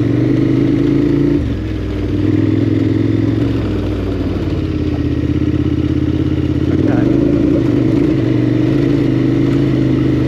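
KTM 1290 Super Adventure R's big V-twin engine running steadily as the bike is ridden off-road. The throttle eases briefly about a second and a half in, and the engine note steps in pitch again around seven seconds.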